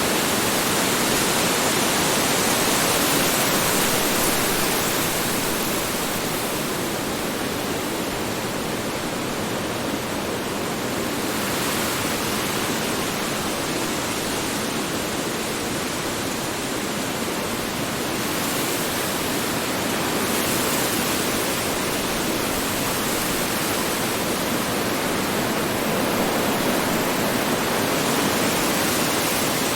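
Strong wind blowing, a dense rushing noise that swells and eases gently in slow gusts.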